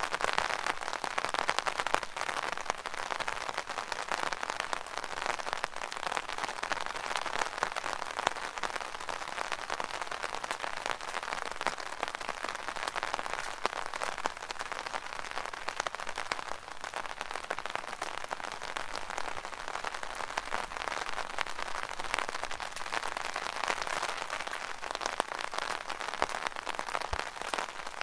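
Rain falling on an umbrella canopy: a dense, steady patter of drops.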